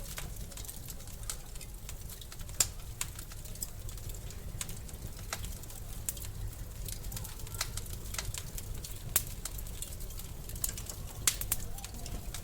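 Wood fire crackling in a fireplace: irregular sharp pops and snaps over a steady low rumble, with the loudest pops about two and a half seconds in and again near nine and eleven seconds.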